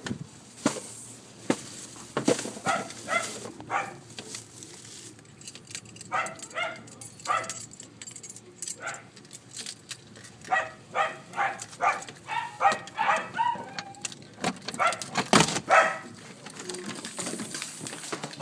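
Dachshunds barking and baying in quick runs of short, pitched calls, several a second, with a few sharp knocks in between.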